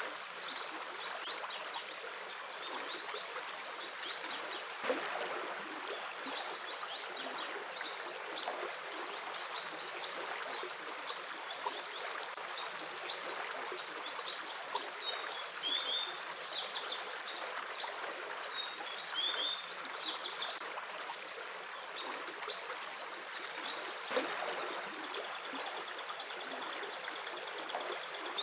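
A stream trickling steadily over rocks, with small songbirds chirping and trilling throughout and a few brief splashes.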